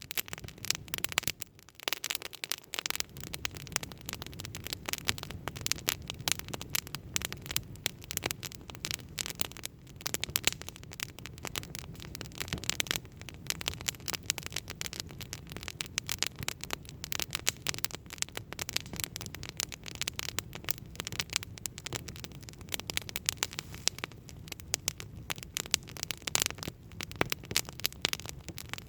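Campfire crackling and popping, a dense, continuous run of sharp snaps over a low steady rumble of the burning wood.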